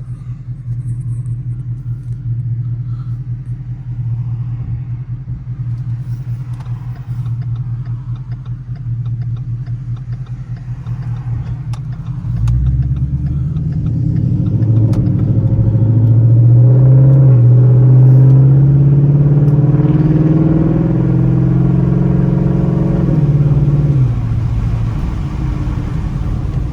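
Ford Mustang GT's V8 idling steadily, then pulling away about halfway through, its note climbing and getting louder as it accelerates before easing off near the end. The engine is heard with the car's windows down.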